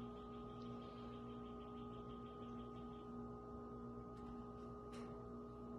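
Quiet room tone with a steady electrical hum made of several held tones, and a couple of faint clicks near the end.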